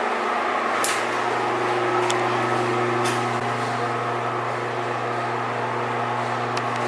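Ventilation fan running steadily with a mains hum, with a few faint ticks about one, two and three seconds in.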